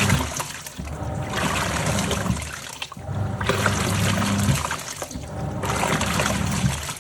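Top-loading washing machine in its wash cycle: the water swishes and splashes over the low hum of the drive motor, in surges that stop briefly every two seconds or so as the pulsator churns back and forth.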